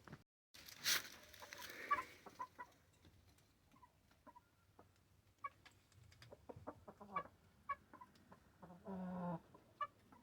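Roosters clucking faintly in short scattered calls, with a brief rustle about a second in and one longer call near the end.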